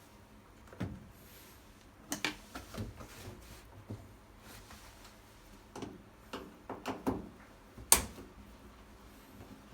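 Scattered clicks and knocks of things being handled, with a sharp knock about eight seconds in.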